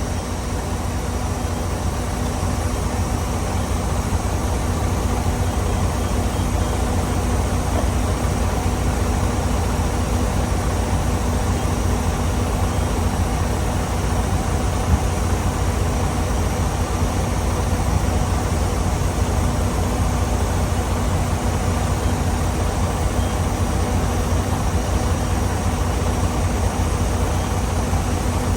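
Semi truck's diesel engine running steadily, heard from inside the cab as a low rumble that grows slightly louder over the first few seconds.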